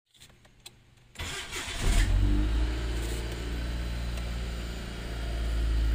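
Mitsubishi Lancer's engine starting about a second in, then running at a steady idle.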